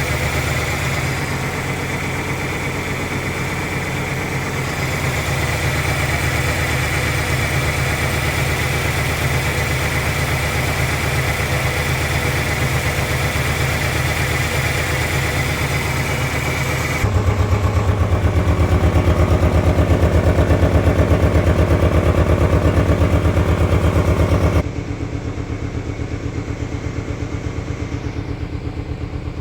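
1997 Ford Ranger four-cylinder engine idling roughly, a steady pulsing run. The sound changes abruptly a little past halfway, louder and deeper, then drops back quieter and duller near the end.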